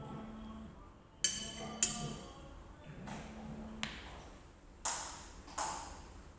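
Cutlery clinking against a plate: a few sharp ringing clinks, spaced unevenly.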